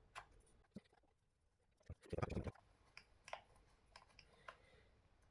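Faint, scattered small clicks from plastic RC car parts and fittings being handled and pushed into place by hand, with a brief scuffing sound about two seconds in.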